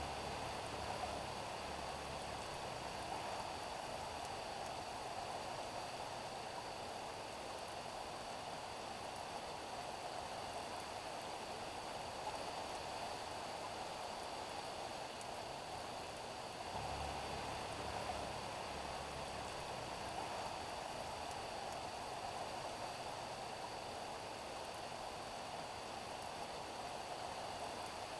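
Steady rain falling on a street, an even hiss with no let-up. A low rumble joins in for a few seconds about two-thirds of the way through.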